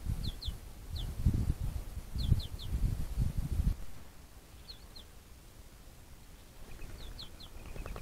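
A small bird calling in quick pairs and triplets of short, high, falling chirps, repeated every second or two. Over the first half there is irregular low rumbling noise, which stops abruptly about four seconds in.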